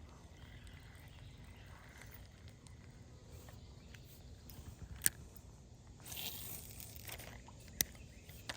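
Quiet outdoor background with two sharp clicks, one about five seconds in and one near the end, and a brief rustle between them.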